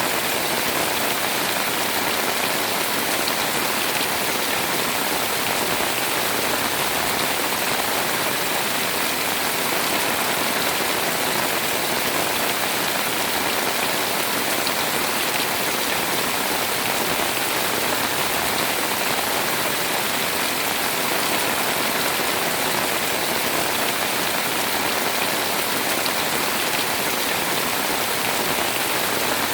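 Heavy rain pouring steadily, a dense, even hiss of drops hitting surfaces.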